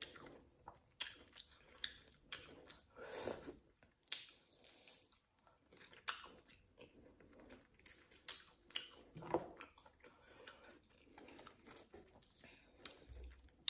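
Close-miked chewing and mouth sounds of someone eating grilled meat by hand: irregular wet smacks, bites and small clicks.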